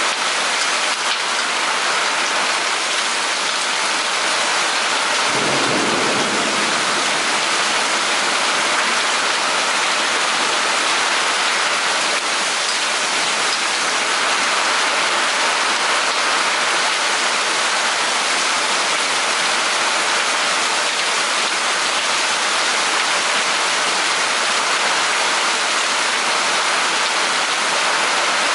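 Steady heavy rain of a thunderstorm falling, with a short low rumble of thunder about five seconds in.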